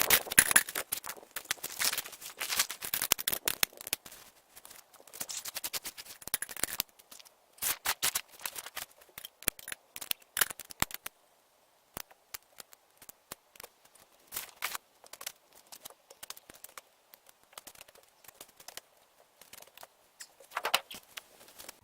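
Camping gear being handled during tent and campsite setup: rustling, scraping and quick runs of sharp clicks. The sounds are busiest in the first half, then turn sparser with short quiet gaps.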